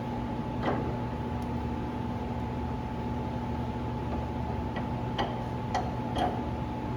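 A few light clicks and taps, most likely tools and hands working on the plow's hydraulic tilt cylinder: one about a second in, then several close together near the end, over a steady mechanical hum.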